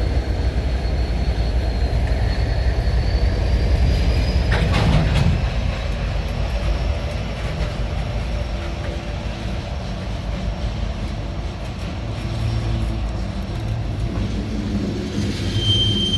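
Freight train rolling past on the rails: a steady low rumble of wheels and cars with a faint high wheel squeal, and a sharp knock about five seconds in.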